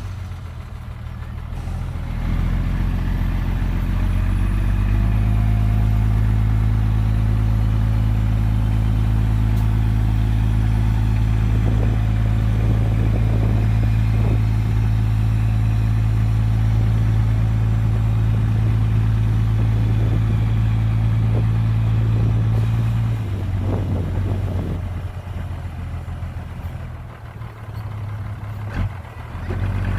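Heavy diesel engine of the earthmoving machinery working under load. It builds up over the first few seconds, then runs loud and steady with a few clanks, and drops back to a lower, uneven run about 23 seconds in.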